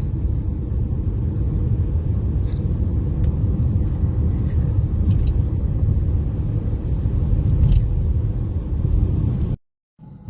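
Steady low rumble of a car driving on the road, which cuts off abruptly near the end.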